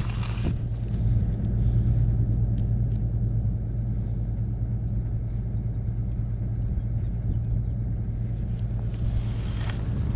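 Tractor engine running steadily at a low idle, an even low drone.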